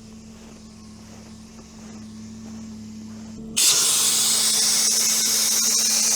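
Air hissing loudly and steadily out of the all-terrain vehicle's low-pressure tyre as it is deflated, starting abruptly about three and a half seconds in. Before it starts, the vehicle's engine can be heard idling with a steady low hum.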